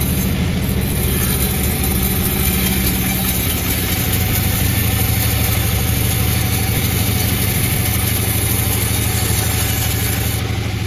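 Panda36 two-stroke chainsaw running steadily, its engine note dropping lower about four seconds in and holding there.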